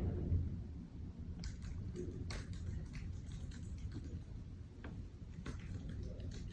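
Building construction work heard through the apartment's walls and floor: a low rumble with a dull thud near the start and another just after, then scattered light knocks and clicks.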